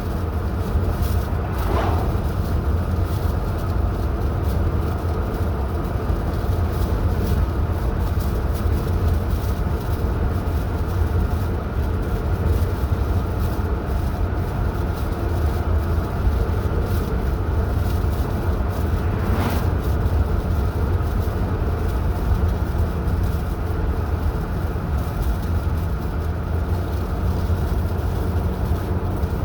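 Car driving at a steady speed: continuous low engine and road rumble that does not change, with one brief knock about twenty seconds in.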